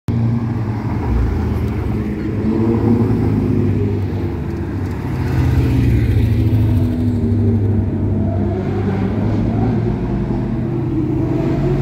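Ferrari engines running steadily, with a few short revs rising and falling in pitch in the second half.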